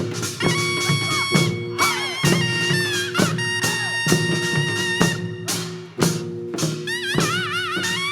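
Korean traditional accompaniment for the Jindo drum dance: drum strokes about twice a second under a high, wailing melody with wide vibrato and sliding pitches, over a steady held lower tone.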